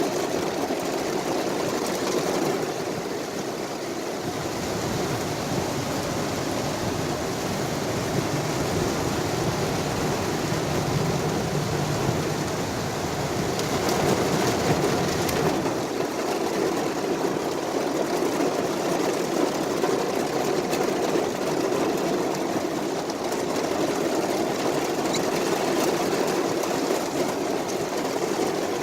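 Inside a moving car in heavy rain: steady engine and road noise mixed with rain falling on the car.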